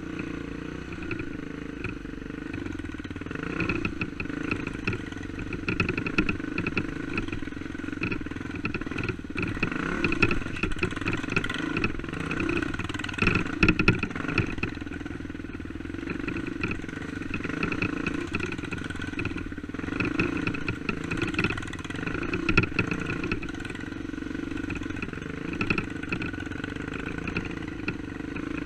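Four-stroke single-cylinder dirt bike engine running on a rough trail, the throttle rising and falling, with short clattering knocks from the bike over rocks, loudest about halfway through.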